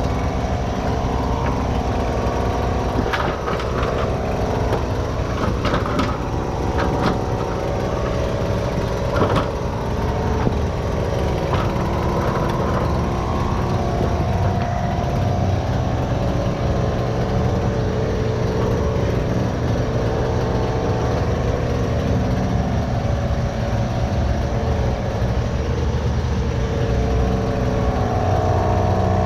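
Skid steer engine running steadily while driving a bush hog through brush, with a handful of sharp knocks and cracks in the first half.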